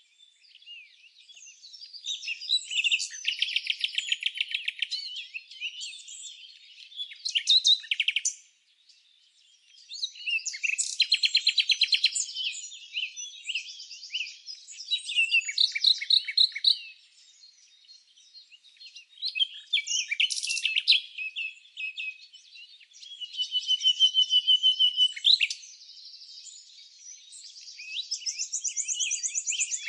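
Songbirds chirping and singing in bursts of rapid, high trills and chirps, with short lulls between bursts.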